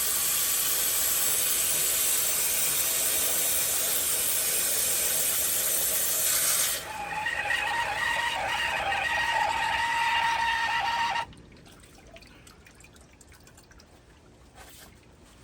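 Water from a hose rushing into a Hayward Super Pump's strainer housing to prime the pump before start-up. About seven seconds in the rush changes to a filling sound with a steady ringing tone, and it stops suddenly at about eleven seconds.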